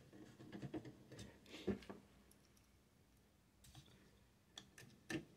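Faint scattered clicks and light knocks of a small plastic cooling fan and its parts being handled and fitted back together, with a quiet stretch midway.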